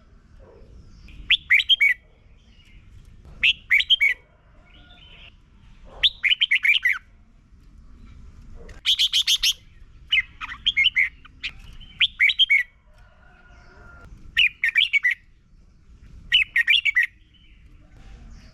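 Red-whiskered bulbul singing, a string of short, quick warbled phrases repeated every second or two with brief pauses between them.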